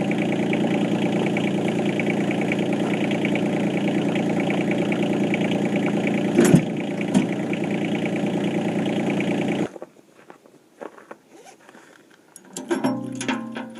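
Yanmar SC2450 compact tractor's diesel engine running steadily, with a sharp metal knock about two-thirds of the way in. The engine sound stops abruptly, leaving faint scattered clicks, then metallic clicking and clanking near the end.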